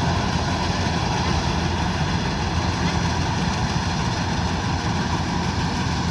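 Kubota DC-105X combine harvester running steadily, with a constant diesel engine drone that neither rises nor falls.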